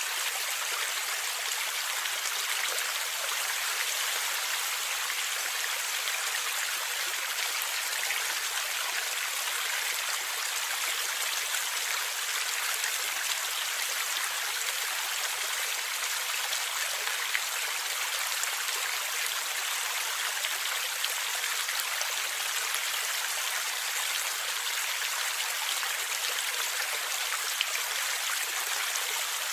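Stream water flowing and gurgling, a steady hiss of running water with many tiny splashes and no low rumble.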